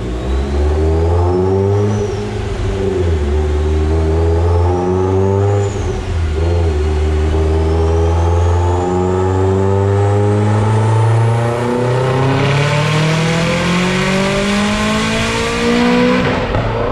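Mitsubishi Evo X's turbocharged 4B11T four-cylinder accelerating on a chassis dyno under boost. The engine note climbs in pitch with two brief dips in the first six seconds, then rises in one long pull while a high turbo whistle climbs with it. The sound grows louder and hissier towards the top of the pull and drops off just before the end.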